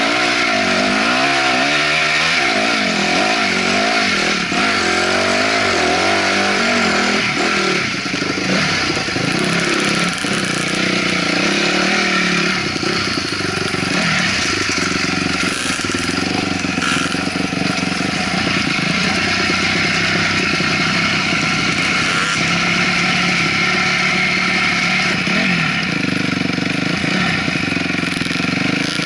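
Honda CRF250R's single-cylinder four-stroke dirt-bike engine being ridden, revving up and down repeatedly in the first few seconds and then running more steadily, with wind rushing over the helmet-cam microphone.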